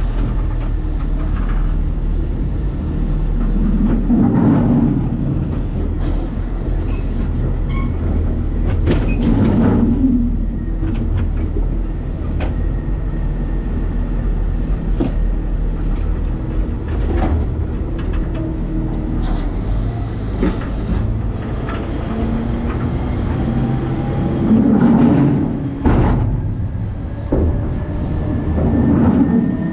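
New Way Sidewinder side-loading garbage truck running, a steady low mechanical rumble that swells four times as the truck works, with a few sharp metal knocks.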